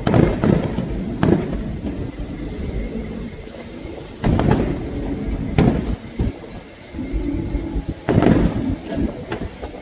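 Aerial firework shells bursting in clusters every few seconds, each sharp bang trailing off in a long rolling echo.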